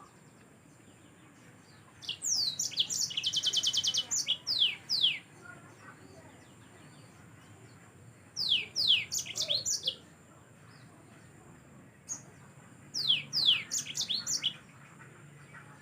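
Yellow-fronted canary (Mozambique canary) singing in three short bursts of fast, high notes sweeping downward, the first bout including a rapid buzzy trill.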